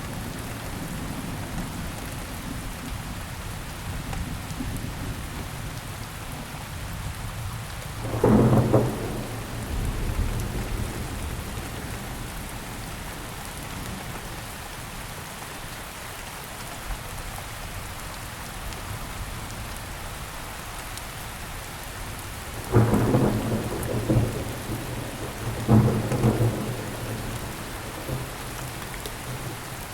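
Steady rain, with loud claps of thunder rumbling out three times: once about eight seconds in, and twice close together near the end.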